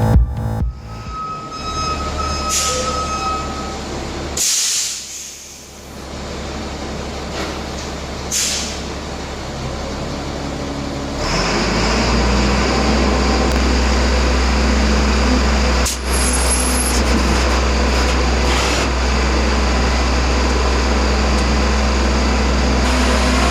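Short hisses of compressed air, then an air tool running steadily from about halfway in.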